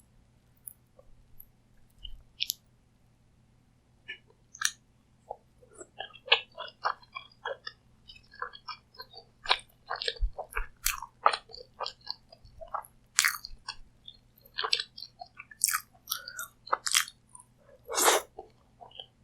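Close-miked eating: a few sparse mouth clicks, then from about four seconds in steady chewing with crisp crunching bites and wet mouth sounds, loudest near the end.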